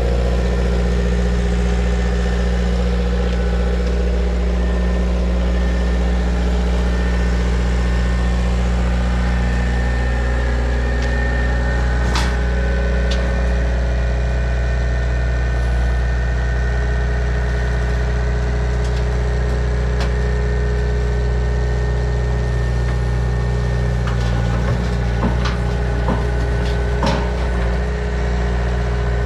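Diesel engine running steadily at idle-like speed, with a few sharp knocks during it.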